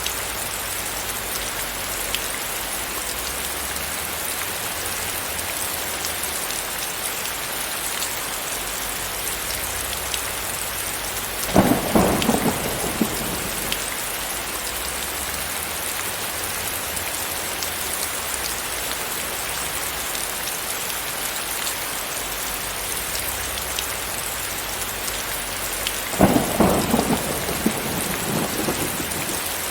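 Steady rain falling, with two claps of thunder rumbling for a couple of seconds each, one a little before the middle and one near the end.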